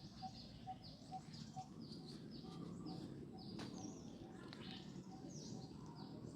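Birds chirping faintly: short falling chirps repeated about twice a second, over a regular low note pulsing at about the same rate.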